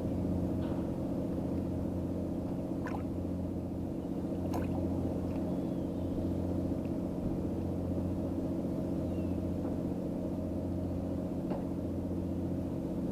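Steady low engine hum of several fixed tones, unchanging throughout, with a couple of faint clicks.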